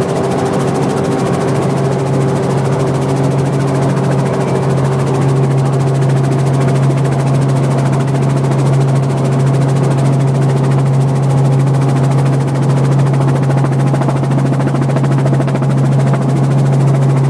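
Helicopter running steadily: a loud, even drone with a strong low hum and a fast, regular chopping flutter from the rotor blades.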